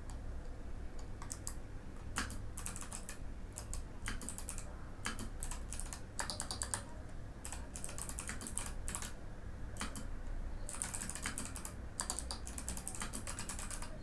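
Typing on a Mikit M65 mechanical keyboard with clicky Kailh Box White switches: runs of quick keystrokes broken by short pauses.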